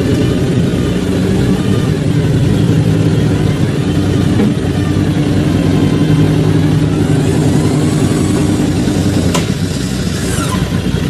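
Off-road 4x4's engine running under load, its pitch rising and falling as the revs change, with one sharp click about nine seconds in.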